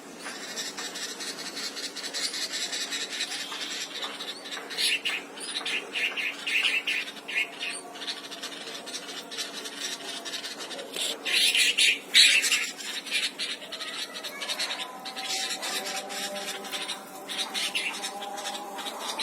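Bulbuls calling in a busy run of short, high-pitched chirps, loudest about twelve seconds in.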